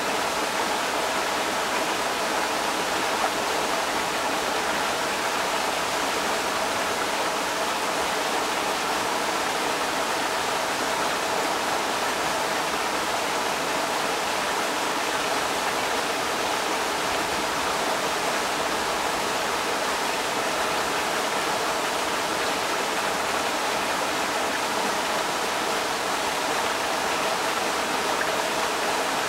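Creek water rushing steadily over rocks, a dense, even splashing without a break.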